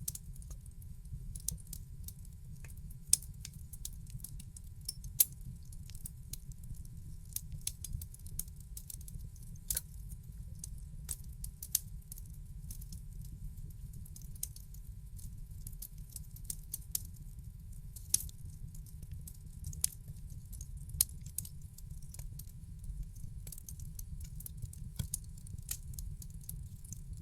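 Wood fire crackling in a fireplace: irregular sharp pops and snaps, a few louder ones standing out, over a steady low rumble.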